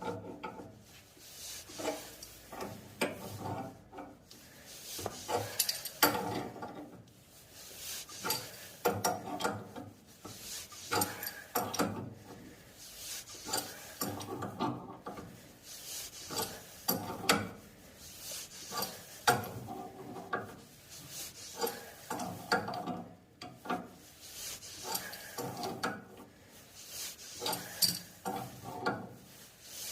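A wrench being worked in repeated strokes on the threaded union nuts of a ball valve on heating pipework, with metal clicks and scraping at each stroke as the fittings are tightened.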